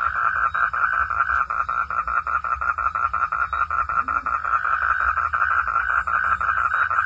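Frog calling at night in a fast, steady run of evenly spaced pulses that does not let up.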